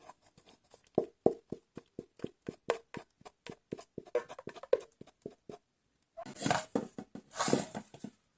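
Quick, irregular clicks and taps from the pot of freshly made caramel, followed near the end by two short scraping swells.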